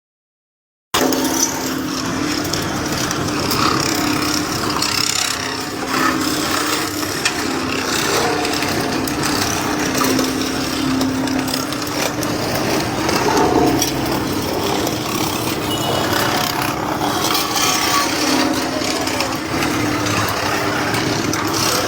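A motor running steadily under dense grinding, scraping noise with scattered clicks. The sound starts about a second in.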